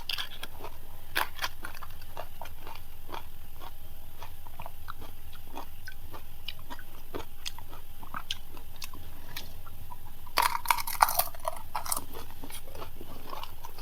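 Crisp panipuri (fuchka) shells being bitten and chewed: scattered chewing clicks and crunches, with a louder run of crunching about ten seconds in.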